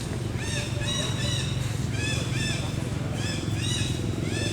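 Monkeys squeaking: short, high-pitched arched calls repeated in quick groups of two or three, over a low steady rumble.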